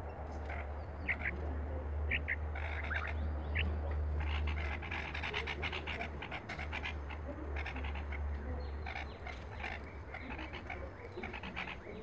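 Birds chirping: short high calls, a few at a time at first, then a fast dense chatter in the middle that thins out again, over a steady low rumble.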